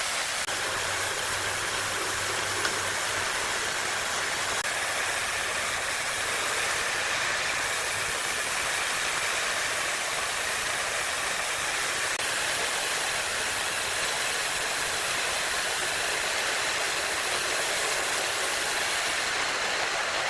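Large sawmill wood saw running and cutting timber: a steady, even noise with no breaks.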